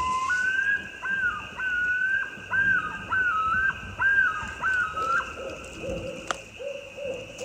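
Common loon yodelling: one long rising wail, then a string of about seven repeated two-note phrases, going over into lower, wavering notes for the last couple of seconds. A faint steady high whine runs underneath, and there is one sharp click near the end.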